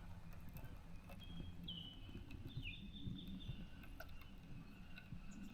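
Faint bird calls: thin whistled notes with a couple of quick pitch slides around two to three seconds in, over a low outdoor rumble.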